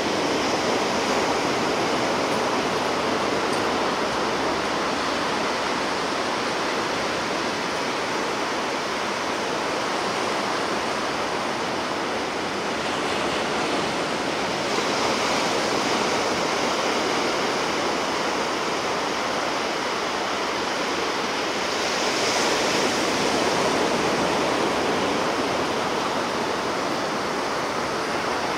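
Sea surf washing onto the shore, a continuous rush of waves that swells gently a couple of times.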